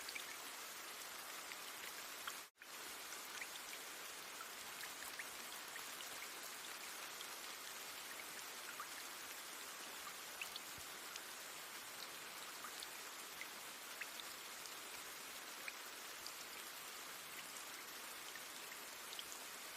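Steady rain, a faint even hiss with scattered single drops ticking through it. It drops out for a split second about two and a half seconds in.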